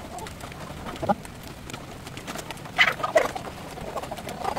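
Chickens calling and clucking, with short calls about a second in and a cluster of louder ones around three seconds in.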